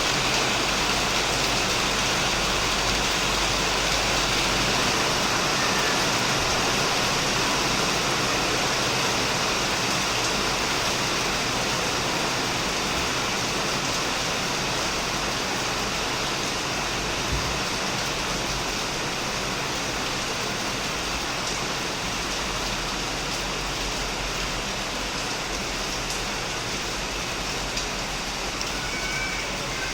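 Heavy rain falling steadily on a shed roof and surrounding plants, a dense even hiss of drops with no let-up.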